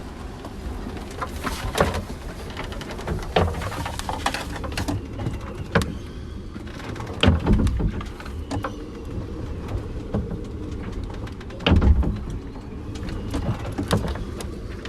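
Strong wind gusting over the yacht and buffeting the microphone in a low rumble, with irregular knocks and rattles from the boat and its gear as it is thrown about at anchor. There are two heavier thumps, about seven and twelve seconds in.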